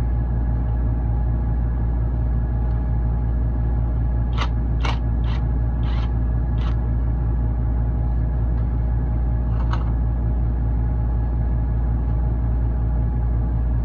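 Steady low drone of ship's machinery, with a few short clicks of hand work: five in quick succession a few seconds in and one more near ten seconds.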